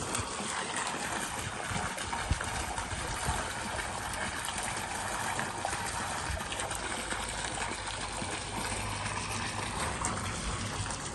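Water running steadily, a continuous splashing flow into standing water.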